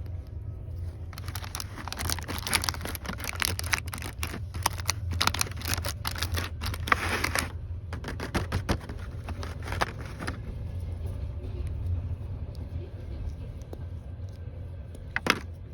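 Passenger train running with a steady low rumble. Over it, an object is handled close up with dense, rapid crackling from about a second in to past the middle, then again for a couple of seconds, and a single sharp click near the end.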